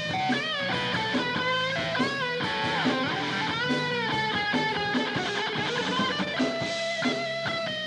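Rock band playing an instrumental passage led by electric guitar, its notes bending up and down in pitch over a steady backing.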